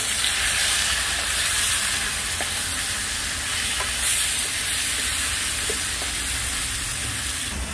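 Onion, tomato and spice masala (cumin, garlic-ginger, turmeric) sizzling steadily in hot oil in a non-stick frying pan as it is stirred with a spatula, with a few light clicks of the spatula against the pan.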